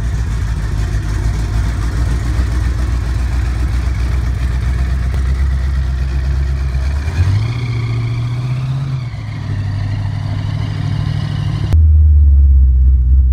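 Supercharged 730-horsepower drag-car engine, a roots blower with carburettors on top, running at idle; about seven seconds in its speed steps up for roughly two seconds, then drops back. Near the end the sound cuts to inside the cabin, where the engine's low note is louder and duller.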